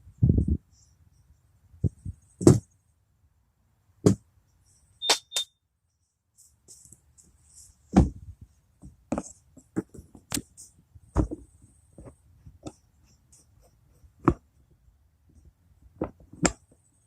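Hand tools knocking and clicking in scattered single strikes, a second or two apart.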